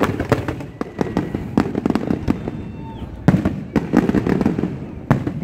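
Fireworks display: a rapid, irregular string of sharp bangs and pops from bursting shells, several a second, over a continuous low rumble.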